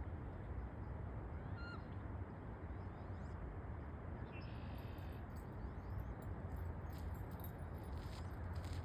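Steady outdoor background noise with two short bird calls: a brief note about two seconds in and a longer buzzy call a few seconds later.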